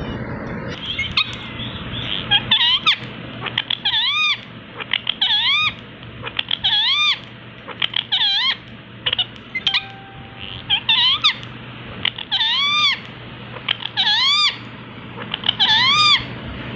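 Ringneck parrot calling repeatedly: about nine short, arching, meow-like calls that rise and fall in pitch, each led by a quick run of clicks.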